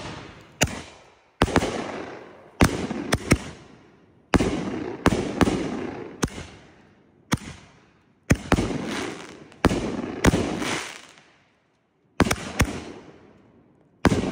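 Aerial fireworks firing shot after shot: about sixteen sharp bangs from launches and bursts, each followed by a rolling echo, roughly one a second, with a short lull about 11 seconds in.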